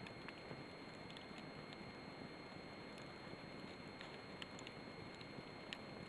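Campfire burning, with irregular sharp crackles and pops over a steady hiss.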